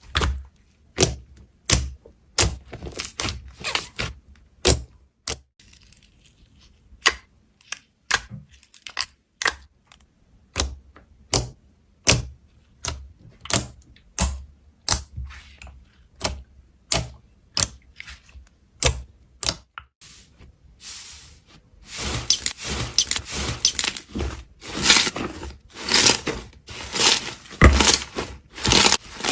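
Slime being worked by hand, giving sharp clicking pops about twice a second, then a denser run of crackling pops near the end.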